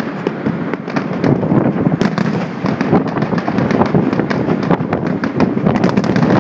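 Aerial fireworks display: a dense, continuous barrage of overlapping bangs and sharp cracks with no pause between them.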